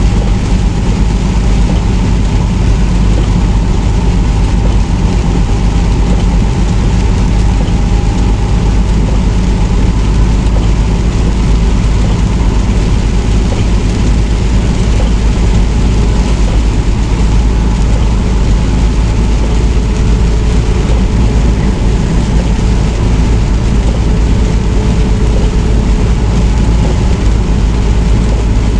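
Inside a semi truck's cab on the road: the engine and tyres make a loud, steady rumble, with a faint steady whine above it.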